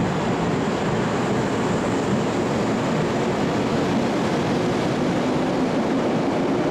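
Ainokaze Toyama Railway 413 series electric multiple unit rolling past along the platform: a steady rumble of wheels on the rails, with a low hum growing stronger near the end.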